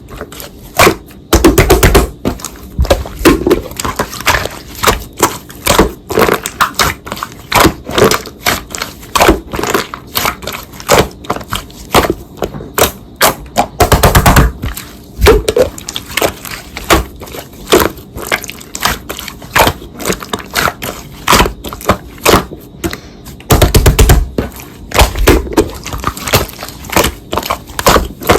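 Slime being pressed and squished by hand, a fast, irregular run of sticky pops and clicks, with three louder, denser bursts of squishing spread through it.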